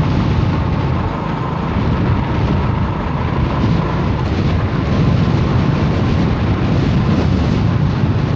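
Steady rumbling noise of a moving vehicle travelling through strong storm wind, with no breaks or sudden events.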